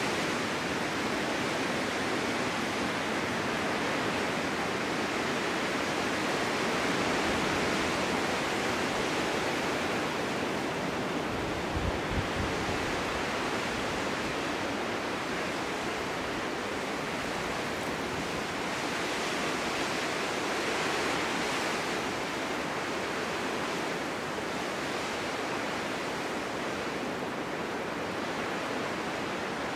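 Snowstorm wind blowing steadily, rising and falling in slow swells, with a brief low thump about twelve seconds in.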